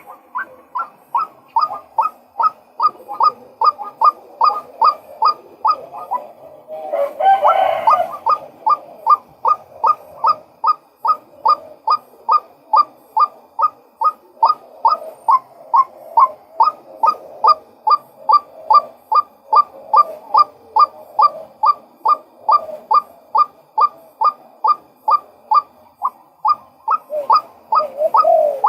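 Male white-breasted waterhen calling: a long, monotonous run of short 'kwak' notes repeated at about two and a half a second. A harsher, louder burst breaks in around seven seconds in.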